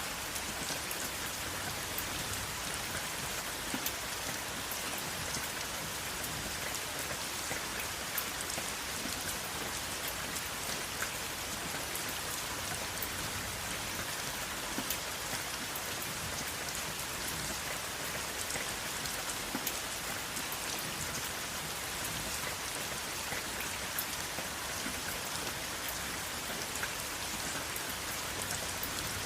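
Steady rainfall, the patter of raindrops hitting a surface, with fine individual drop ticks over an even hiss and no thunder.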